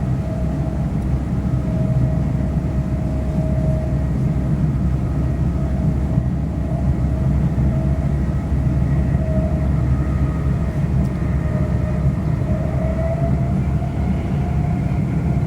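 London Midland Class 350 electric multiple unit heard from inside the carriage, running at speed: a steady rumble of wheels on track under a thin electric traction motor whine, which rises slightly in pitch about three-quarters of the way through.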